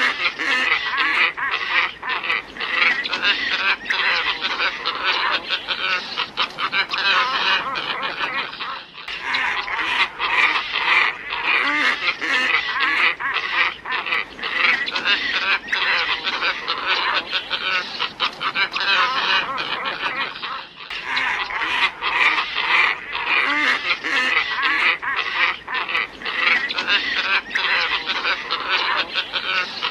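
A flock of glossy ibises calling in a dense, unbroken chorus, with brief dips about 9 and 21 seconds in: a recorded lure call used to attract ibises.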